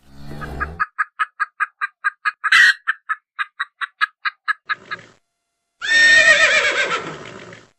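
An animal calling: a rapid run of short, evenly spaced calls, about five a second for some four seconds, then a louder, longer wavering call that fades away.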